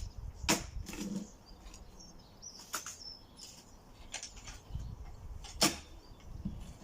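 Several sharp knocks or clicks, a second or two apart, the loudest about half a second in and near the end, with faint bird chirps and a low rumble between them.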